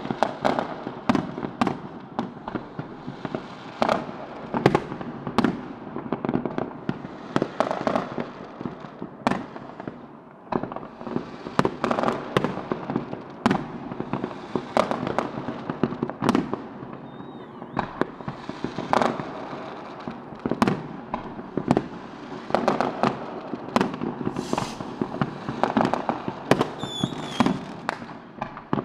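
New Year's fireworks and firecrackers going off across a city: a dense, irregular string of bangs and pops over a constant background crackle, with a couple of brief whistles.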